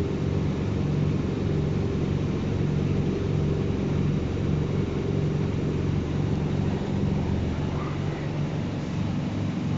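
Washing machine running with a steady motor drone, which shifts in pitch near the end.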